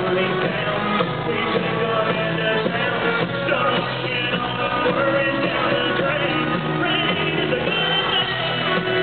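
Live country-rock band playing at full volume, with voices singing and shouting over it, the sound dull and lacking treble.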